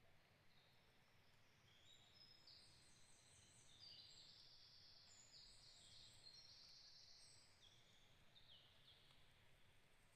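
Faint, high, thin birdsong: a busy run of short held notes at many different pitches, often stepping down, thickest in the middle, over a faint low background rumble.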